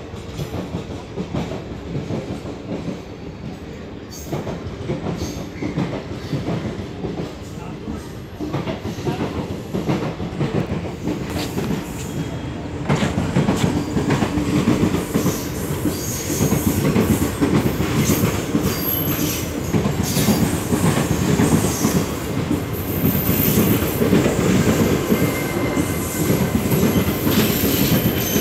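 Indian Railways passenger coaches rolling past close by, wheels clattering over the rail joints. It gets louder about halfway through, and thin high wheel squeals come in near the end.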